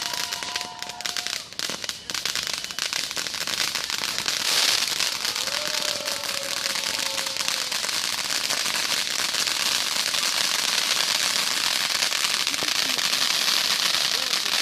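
Fireworks crackling: a dense, continuous stream of rapid crackles and pops, growing thicker and louder about four seconds in.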